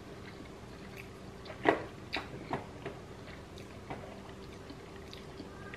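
Chewing sushi with the mouth close to the microphone: a few soft, wet clicks and smacks, spaced irregularly over a faint steady hum.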